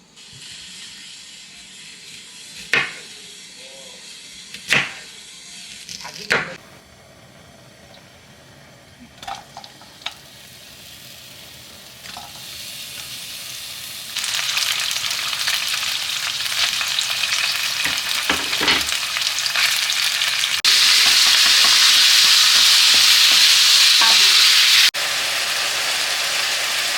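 Food sizzling in a frying pan as it is stirred. A few sharp clacks of a utensil come early, then the sizzling grows louder and changes level abruptly twice.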